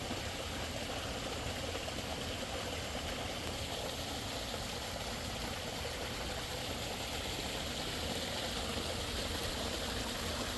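Koi pond water running steadily, a constant even rush that grows slightly louder near the end.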